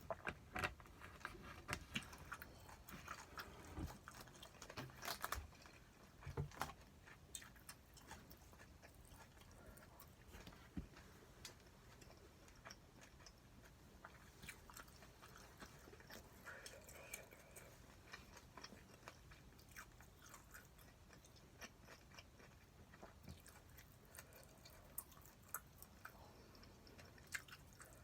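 A person quietly chewing a meal of spicy stir-fried pork (jeyuk bokkeum), with many small clicks and mouth sounds of eating; they come thickest in the first several seconds and again near the end.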